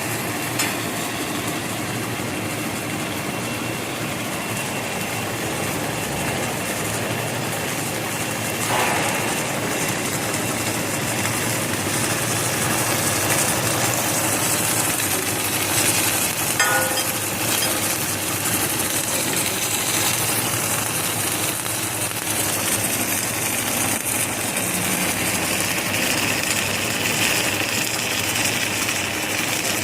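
Box beam welding machine running: a steady mechanical noise, with brief knocks about nine seconds and sixteen seconds in.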